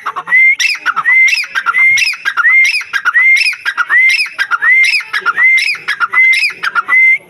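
A teetar (francolin) calling loudly, giving the same harsh, rising-and-falling call phrase over and over, about three every two seconds, in an unbroken series.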